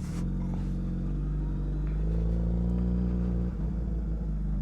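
Suzuki Hayabusa motorcycle's inline-four engine running at low revs, moving off at low speed. The revs rise slightly about two seconds in, and the note breaks briefly about three and a half seconds in.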